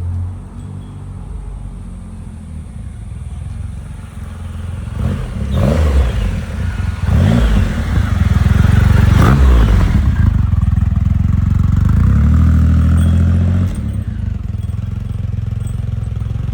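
Triumph Rocket 3's inline three-cylinder engine running, revved up and down several times from about five seconds in. It is then held at higher revs for a few seconds and drops back sharply toward idle near the end.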